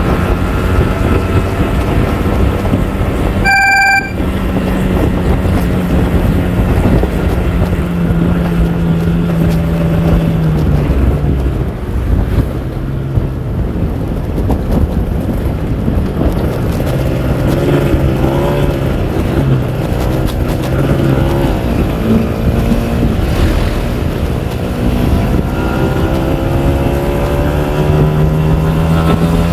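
Kawasaki Ninja R 150's two-stroke single-cylinder engine running under way: steady at first, easing off about halfway through, then rising in pitch as it speeds up near the end. Wind buffets the microphone throughout. A short bright tone sounds about four seconds in.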